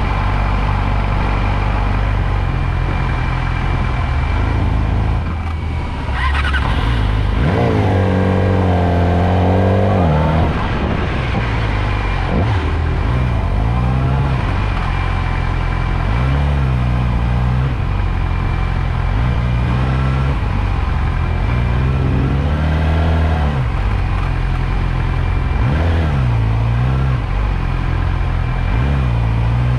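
Motorcycle engine running while riding, its pitch climbing and dropping again and again as it accelerates and shifts, with one longer climb about seven seconds in.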